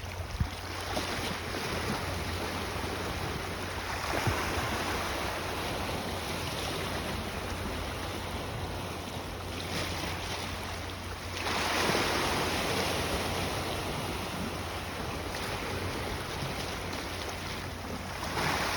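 Sea waves surging and washing, swelling louder several times, with wind on the microphone.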